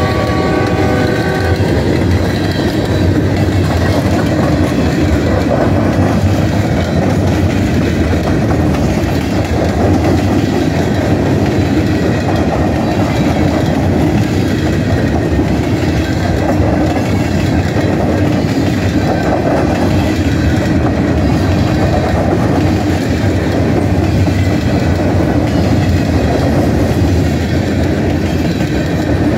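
Freight train of coal hopper cars rolling steadily past on the rails. The locomotive's horn sounds at the very start and fades out after about a second.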